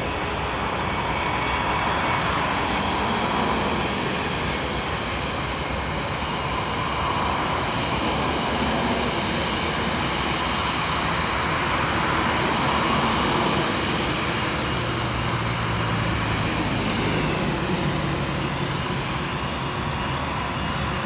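Jet airliner engines running loud and steady, a rushing noise with high whining tones; the whine shifts in pitch near the end.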